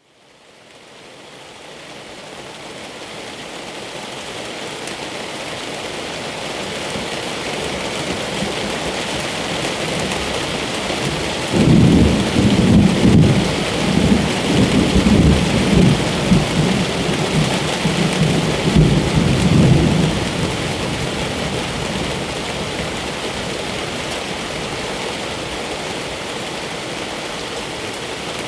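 Steady rain that fades in over the first few seconds, with a long roll of thunder starting about twelve seconds in and dying away some eight seconds later.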